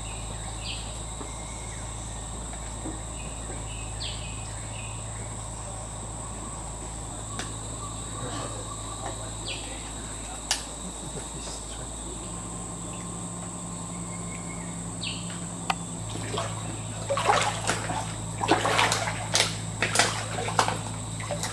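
Rainforest insects droning in a steady high pitch, with short bird chirps. In the last few seconds comes a run of loud, irregular splashes.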